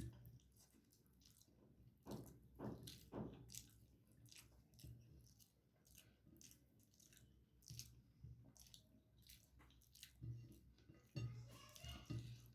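Faint, close-miked chewing and wet mouth sounds of someone eating, with scattered smacks and crunches.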